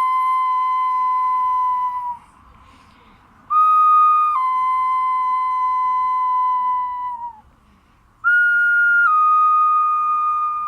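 Small clay folk whistle blown in three long notes, the first already sounding. Each note starts on a short higher pitch, drops to a lower held tone and sags at its end, imitating a wolf's howl.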